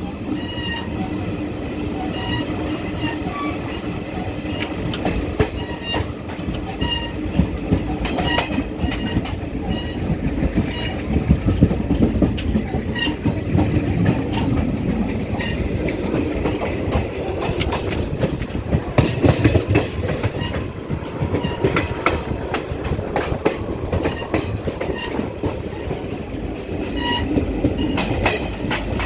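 Passenger express train running at speed, heard from aboard: a steady rumble from the wheels on the rails with scattered clicks and clatters from the track.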